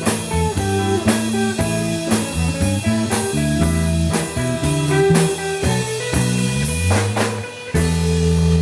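Rock band playing an instrumental passage: electric guitar lines over bass and a drum kit keeping a steady beat. Near the end the band hits a loud held final chord that rings on.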